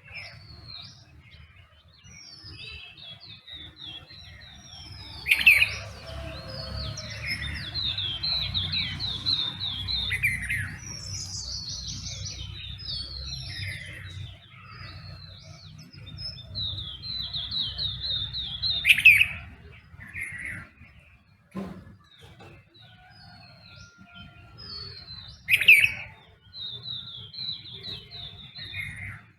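Several songbirds calling and singing together in an early-morning chorus: rapid runs of short high notes recur every few seconds. Loud, sharp calls stand out about five, nineteen and twenty-six seconds in, over a faint low rumble.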